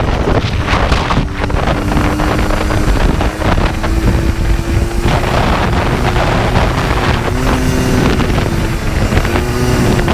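Yamaha Blaster 200 ATV's two-stroke single-cylinder engine running at speed, its pitch wavering a little, with heavy wind rushing over the microphone.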